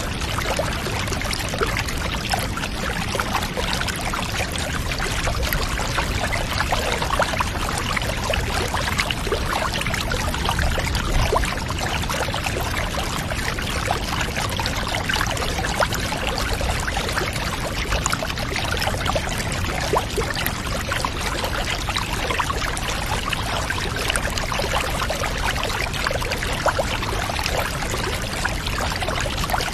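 Water pouring steadily, an even rushing splash that keeps on without a break.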